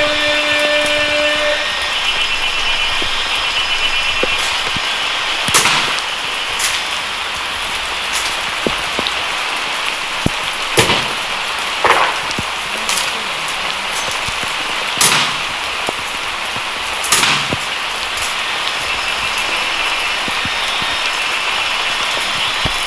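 Heavy rain falling steadily, broken by several sharp knocks at irregular intervals from honor guards' rifles striking the ground and being handled during rifle drill.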